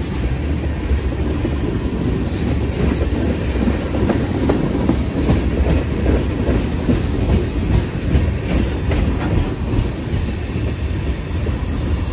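A passing train: a steady rumble of rolling cars, with wheels clicking over the rail joints, thickest in the middle.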